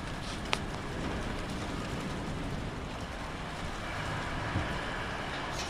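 Windstorm with rain arriving: a steady rushing noise of wind with low rumble, and a single sharp click about half a second in.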